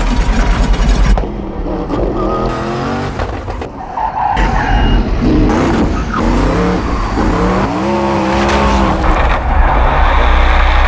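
Twin-turbo V8 of the Hoonicorn, Ken Block's all-wheel-drive Ford Mustang, revving hard in repeated rising pitch sweeps as the car is driven flat out. Tyres squeal and scrub through the slides.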